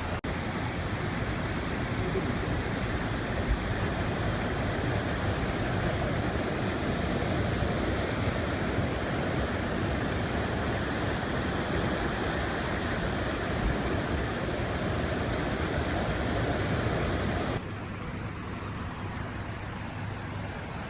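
Steady rushing of a swollen, flooding river after heavy rain. About three-quarters of the way through it becomes quieter and duller.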